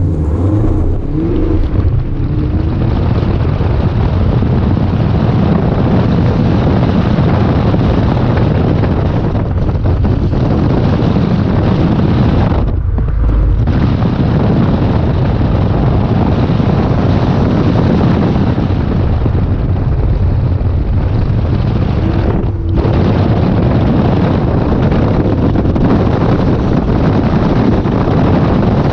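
Chevrolet Camaro SS 1LE's V8 engine running hard during an autocross run, buried in dense, loud wind buffeting on the microphone. The sound dips briefly twice, about 13 and 23 seconds in.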